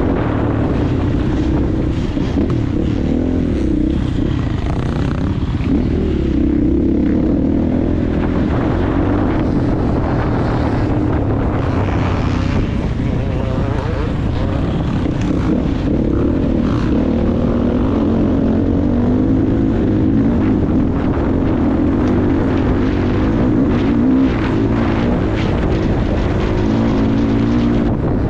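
Motocross bike engine running hard while being ridden, its revs rising and falling again and again with the throttle and gear changes.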